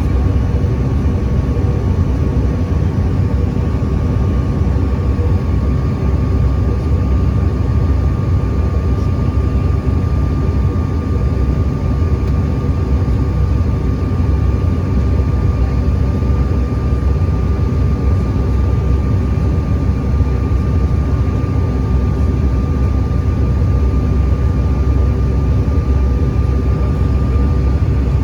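Steady engine and airflow rumble of a regional airliner, heard from inside the passenger cabin, with a thin steady high tone over it.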